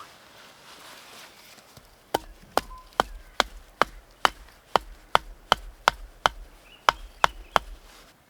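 A blade chopping into wood: about fifteen quick, sharp strikes, roughly two or three a second, starting about two seconds in.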